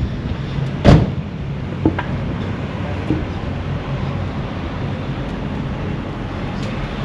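Motor vehicle engine running close by, a steady low rumble, with a loud sharp knock about a second in and a smaller one about a second later.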